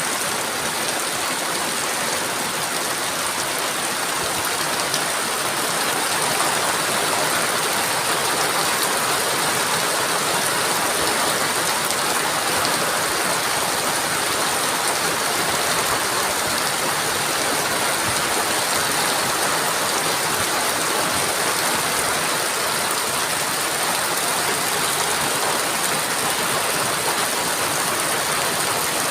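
Heavy rain pouring steadily, a dense even hiss with no break or change in strength.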